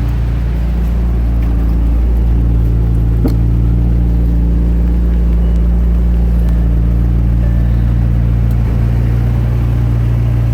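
McLaren 720S's twin-turbo V8 idling steadily, its exhaust giving a deep, even rumble.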